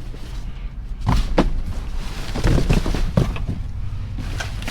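Rummaging through trash in a dumpster: a series of thumps and knocks as items are shifted and tossed aside, with a steady low rumble underneath.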